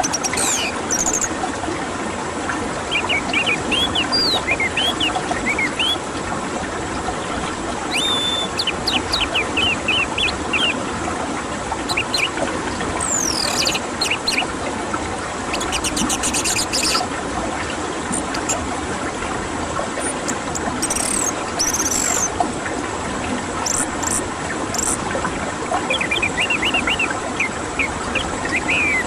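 Songbirds chirping and calling in scattered bursts of quick, pitch-sliding notes, over a steady, dense rushing background noise.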